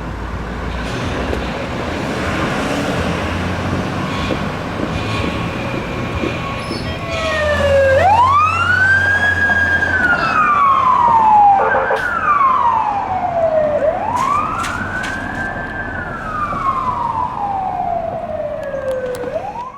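Fire truck passing under way, its engine rumbling low, then its siren wailing in slow cycles that rise quickly, hold high and fall away slowly. A short blast breaks in about halfway through.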